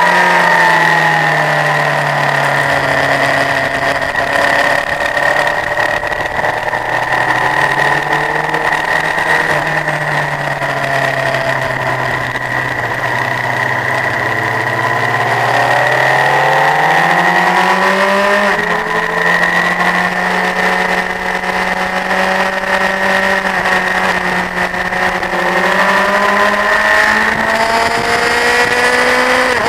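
Honda CBF1000 inline-four motorcycle engine running at speed on a race track, its note falling as the bike slows over the first ten seconds or so, then climbing as it accelerates from about fifteen seconds, dipping briefly and rising again near the end.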